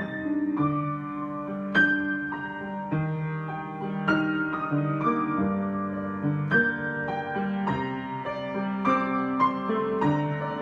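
Solo piano improvisation: a slow, gentle passage of sustained chords with a melody over them, new notes struck every half second or so.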